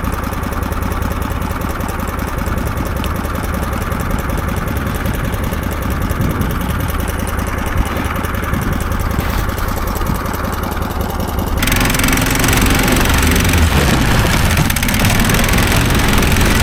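Snowdog motorized tow machine's engine idling steadily. About twelve seconds in it gets louder and harsher, with more rushing noise over the top.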